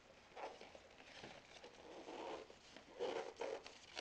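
A cardboard box being opened by hand: irregular scraping and rustling of cardboard and paper packing, loudest in the second half.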